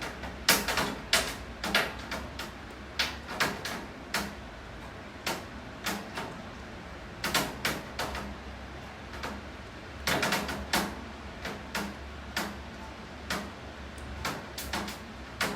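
Raindrops tapping irregularly on a hard surface: sharp ticks a few times a second, some bunched closely together, over a steady low hum.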